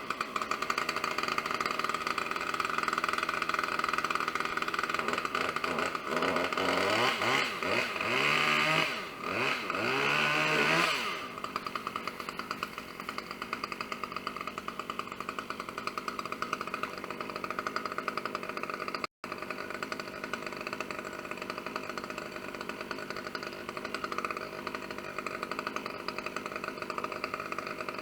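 Two-stroke chainsaw running at high revs for about the first eleven seconds, its pitch dipping and rising, then dropping back to a steady idle.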